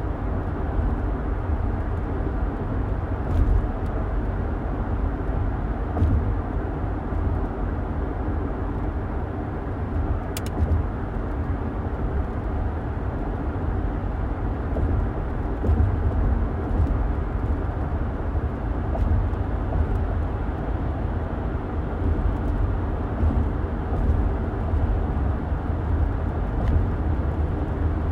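Car driving at a steady pace, heard from inside the cabin: a continuous low rumble of road and engine noise, with a few faint clicks.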